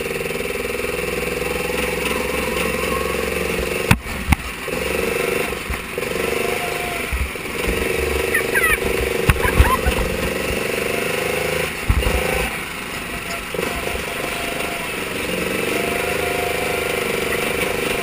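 Mini sprint car engine running steadily, its pitch holding level. A few sharp knocks come about four seconds in and again around twelve seconds, with a cluster of short loud peaks in between.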